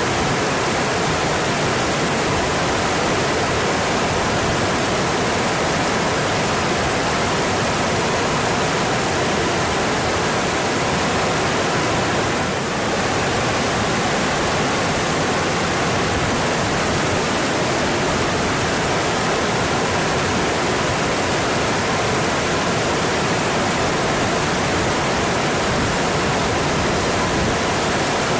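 Mountain stream rushing over its rocky bed: a steady, even rush of water, with a brief slight dip in level about halfway through.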